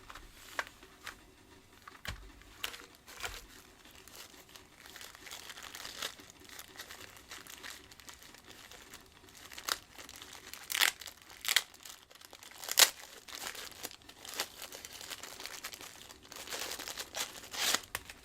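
Hands working on a vacuum cleaner's brush-head assembly: crinkling and rustling with scattered sharp clicks and taps of plastic parts, the loudest clicks coming about ten to thirteen seconds in.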